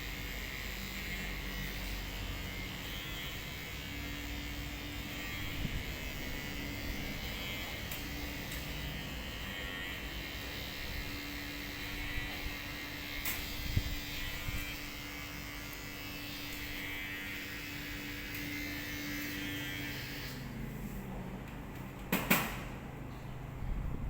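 Electric hair clippers running steadily with a buzzing hum, then switched off about 20 seconds in, the motor's pitch sliding down as it winds down. A couple of sharp clicks follow near the end.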